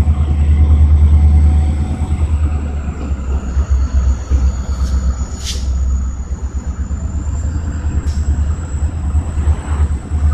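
CSX train rolling through a grade crossing with a heavy low rumble, loudest over the first second or so and then easing off. A few short, sharp high clinks come about halfway through.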